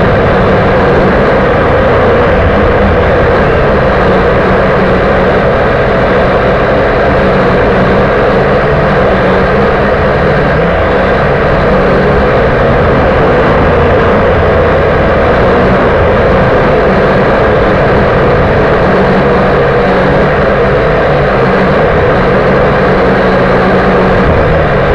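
Small electric motors and propellers of a V959 toy quadcopter whirring steadily and loudly, picked up close by its own onboard camera.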